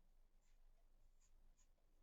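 Near silence, with a few faint ticks of a pen writing.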